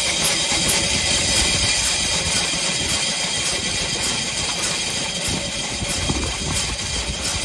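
1901 Curved Dash Oldsmobile's single-cylinder engine idling slowly, firing in an even beat about two to three times a second, just after a first start after years in storage.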